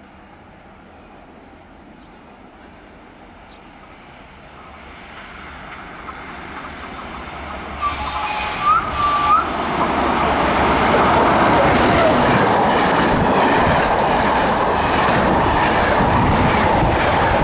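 Intercity passenger train approaching along the track, growing steadily louder over about ten seconds, then running loudly through with wheels clacking over the rails. A few brief high squeals come from the wheels about eight to nine seconds in.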